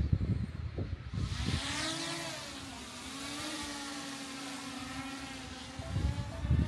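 A motor running with a steady pitched hum and hiss, its pitch swinging up and back down about a second in and then holding level for several seconds.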